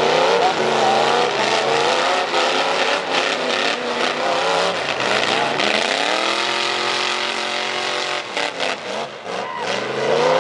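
Loud pickup truck engines racing with open exhausts, revving up and down. The pitch climbs about halfway through, holds steady for a couple of seconds, drops away, and rises again near the end.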